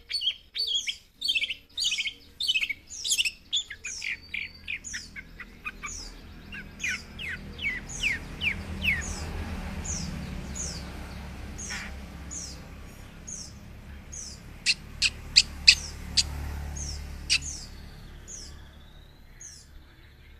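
Long-tailed shrike singing a fast run of short, downward-sweeping chirps, about three to four a second, that thins out into scattered sharper notes in the second half. A low hum runs underneath from about a third of the way in.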